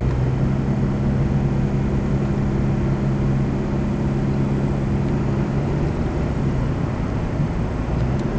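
A car engine running with a steady low hum under continuous road noise.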